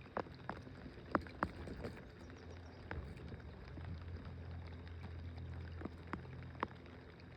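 Scattered light knocks and taps on a small fishing boat, over a low steady hum that swells from about two to six seconds in.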